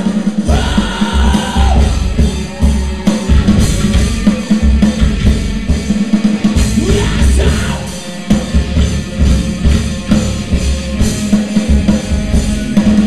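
Live post-hardcore rock band playing loud, with a pounding kick drum and drum kit under the band and a sung vocal line ending on the word "home" about two seconds in. The drums drop out briefly twice before coming back in.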